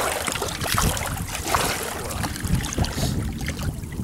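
Water sloshing and splashing around a kayak, with wind rustling on the microphone.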